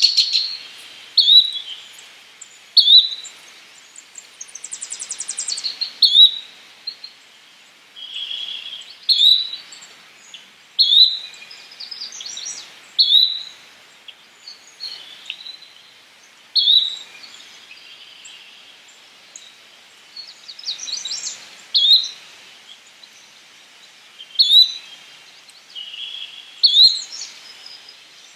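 Yellow-bellied flycatcher calling: short, sharp, clipped notes repeated about every one to two seconds. About four seconds in, a rapid run of higher, quicker notes sounds for a couple of seconds.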